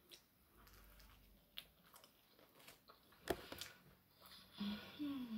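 Faint close-up mouth sounds of someone chewing a mouthful of burger, with a couple of sharp wet smacks, and a short hummed "mm" near the end.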